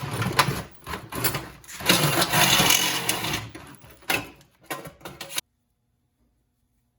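A small power tool running in uneven bursts with a rattling mechanical whir, cutting off suddenly about five and a half seconds in.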